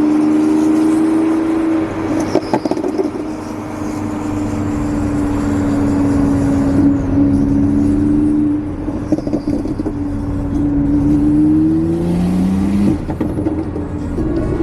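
Car engine and exhaust running with a steady drone, its pitch rising briefly about twelve seconds in.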